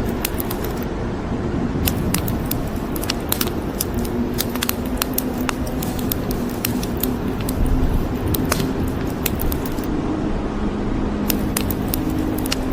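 Wood fire crackling, with many small irregular pops and snaps, over a steady hiss of rain.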